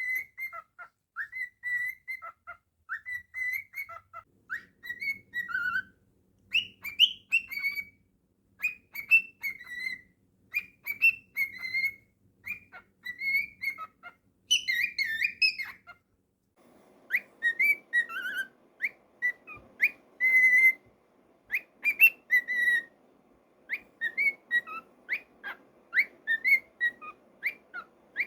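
Pet cockatiel whistling a long string of short, clear notes around one pitch, many with quick upward or downward slides, pausing briefly about halfway through.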